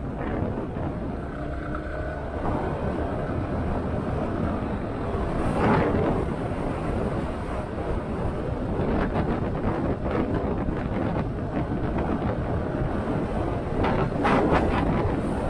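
Motorcycle on the move: engine running under heavy wind noise on the microphone, with two brief louder gusts.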